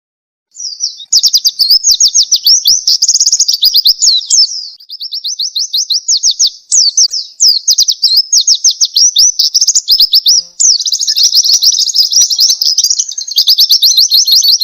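White-eye (pleci) singing a fast, continuous high-pitched twittering song of rapid chirps and trills, starting about half a second in, with two brief breaks.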